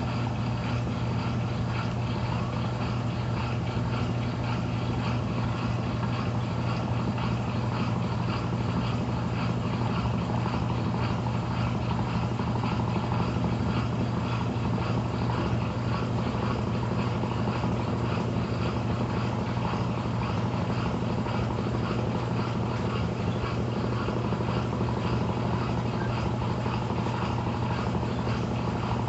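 Brastemp Intelligent 7 kg (BWQ24B) top-loading washing machine running with a steady, unchanging hum and whir, its basket spinning in the spin stage near the end of the wash cycle.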